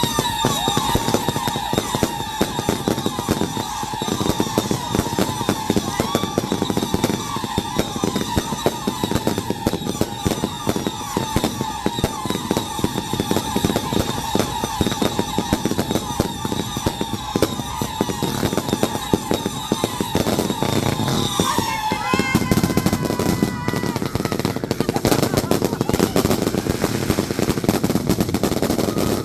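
Consumer fireworks going off in a rapid string of crackling pops and bangs, with a steady high whistle over them that bends down and stops about three quarters of the way through, the pops carrying on after it.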